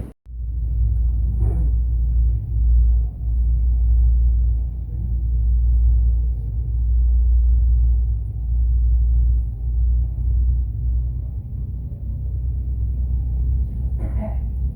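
A low, steady rumble that swells and dips, with faint brief sounds about a second and a half in and again near the end.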